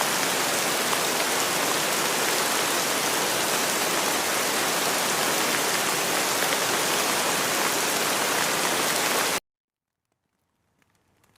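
Steady rain falling, a dense even hiss, that cuts off suddenly about nine seconds in; after a second of silence, much fainter rain fades back in near the end.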